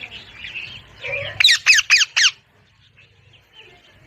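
Parrot making soft chattering calls, then four loud, sharp squawks in quick succession about a second and a half in.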